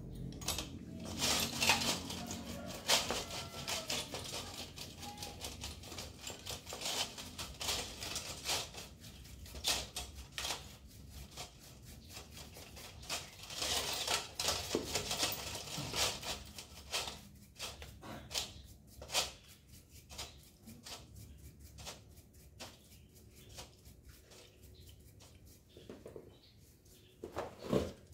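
Irregular metallic clicks and clinks of hand tools and bicycle parts being handled, in scattered bunches.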